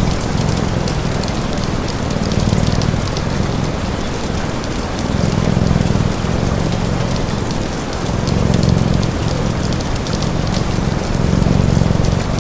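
Steady rain, with fine crackles and a low rumble that swells and eases about every three seconds.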